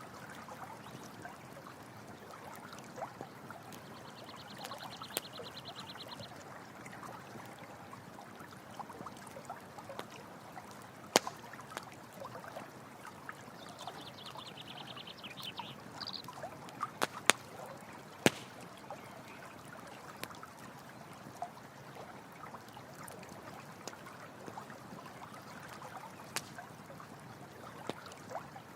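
Stream running steadily, with a campfire popping sharply now and then, loudest a few times in the middle. A high, rapidly pulsed trill sounds twice, for about two seconds each time.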